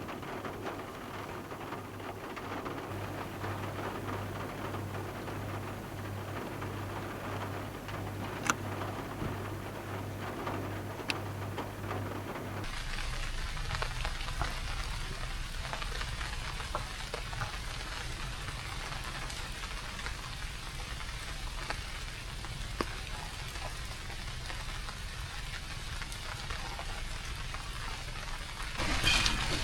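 Rain falling steadily, with a few sharp single drop ticks. A low steady hum sits under it in the first part; the sound changes abruptly about halfway through and grows louder near the end.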